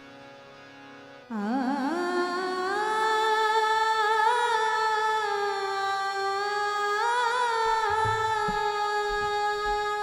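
Indian classical-style vocal music: over a quiet steady drone, a woman's voice enters about a second in, gliding up with a wavering ornament and then holding one long note with vibrato. A few low drum strokes, tabla or pakhawaj, come in near the end.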